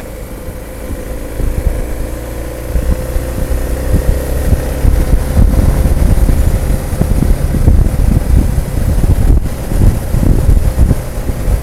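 Motorcycle engine running steadily on the move, with a gusty rumble of wind on the microphone that grows louder a couple of seconds in.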